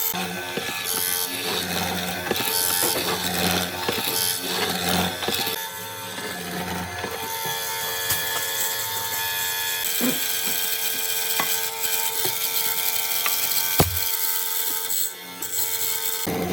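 A woodworking tool working a wood slab, a continuous noisy working sound with a sharp click near the end.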